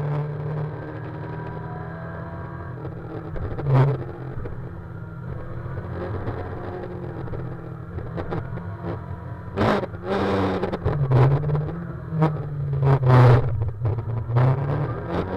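Yamaha FZR600R inline-four engine heard from the rider's seat with wind rush. The throttle is rolled off just after the start and the bike coasts, then the engine note rises and falls under changing throttle through the bends, with short gusts of wind on the microphone.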